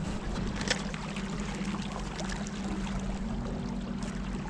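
Motorboat engine running steadily, with water rushing and splashing along the hull.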